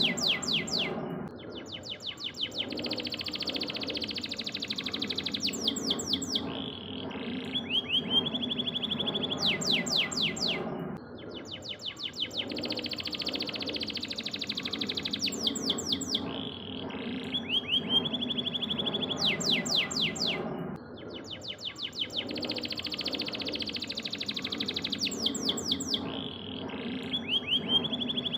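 Domestic canary singing: fast trills and rapid rising and falling notes, in a song phrase that repeats almost identically about every ten seconds.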